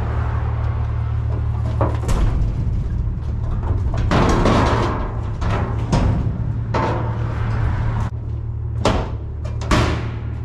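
Knocks, bangs and short scraping rushes over a steady low hum.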